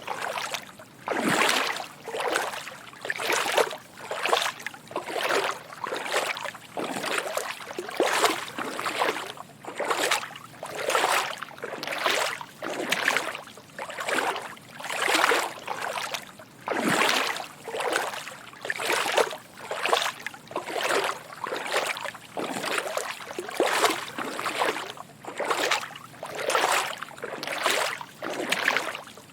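Footsteps wading through shallow water, a soft slosh with each step at a steady walking pace of about one step a second.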